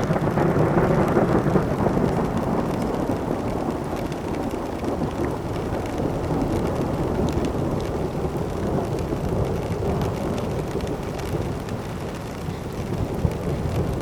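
Thunder: a long rolling peal that breaks in suddenly, is loudest in its first couple of seconds and rumbles on low and heavy.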